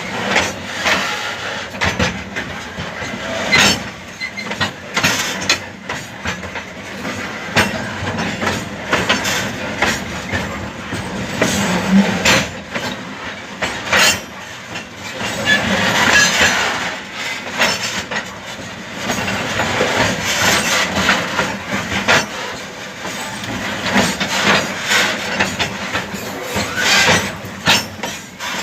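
Model freight train running on layout track while shunting, with many irregular clicks from the wheels and cars over the rails.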